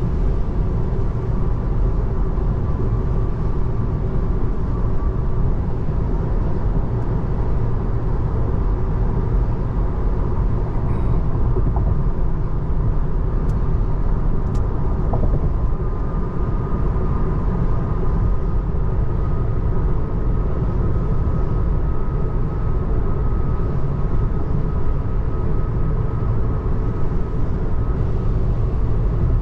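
Steady road and tyre noise inside the cabin of a 2024 Tesla Model 3 Long Range driving at speed, a constant low rumble with a faint high tone running through it. Two small clicks come about halfway through.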